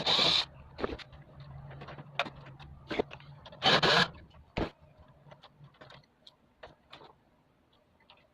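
Parts of a split air conditioner's indoor unit being handled and fitted: scattered clicks and knocks, with two short, loud scrapes right at the start and about four seconds in. A faint low hum stops about six seconds in.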